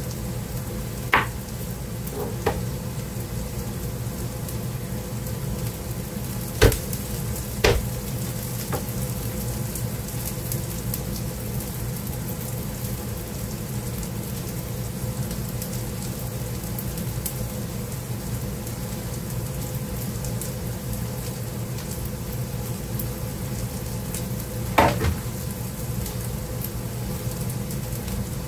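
Diced vegetables sizzling steadily in olive oil in a skillet, with a few sharp knocks from kitchen work now and then.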